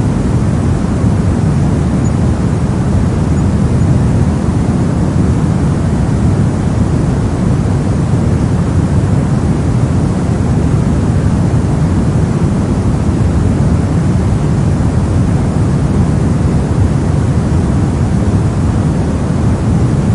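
Brown noise: a steady, even, deep rushing hiss with most of its weight in the low end and little treble.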